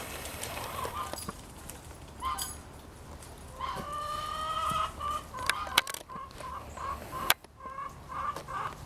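Chickens clucking: one drawn-out call about four seconds in, then a run of short clucks, with two sharp clicks in the second half.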